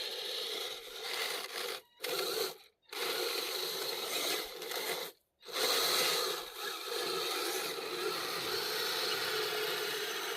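Scale RC vehicle's electric motor and gear drivetrain running with a scraping, ratcheting mechanical sound. It cuts out abruptly three times for a split second each, in the first half.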